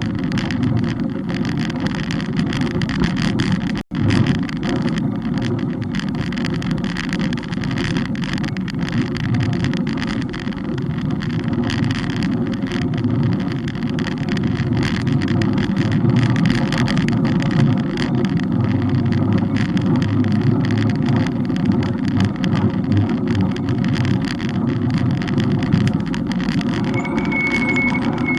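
Steady wind rumble on the microphone and road noise from a moving bike's camera. The sound cuts out for an instant about four seconds in, and a brief high squeal comes near the end.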